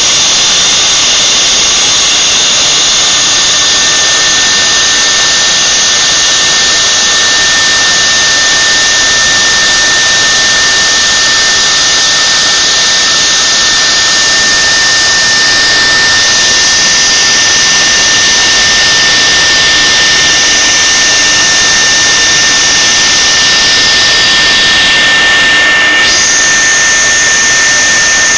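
Large CNC machine running at work: a steady high whine over loud, continuous hissing noise. The hiss changes character twice, shifting about halfway through and abruptly near the end.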